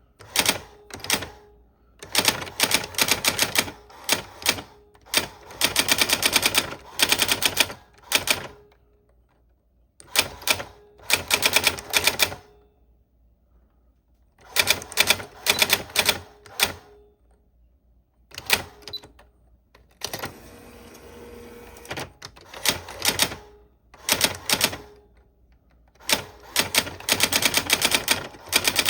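Old typewriter being typed on: bursts of rapid key strikes separated by short pauses, with a longer rasping sound about two-thirds of the way through.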